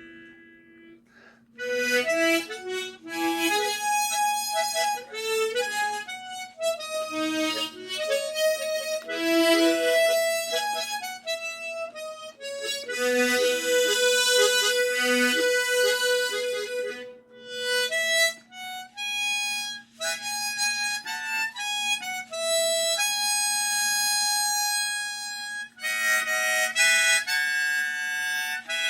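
Harmonica playing a slow melody, single notes mixed with chords, starting after a short pause about a second and a half in.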